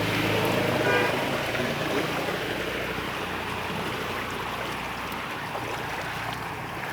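Vehicle engine running amid the steady wash of floodwater, slowly fading, with a brief pitched sound about a second in.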